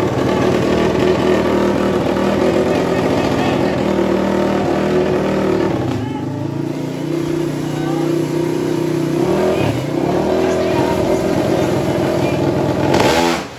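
Racing motorcycle engines revving and held at high revs at the drag-strip starting line, their pitch wavering, with a crowd's voices underneath.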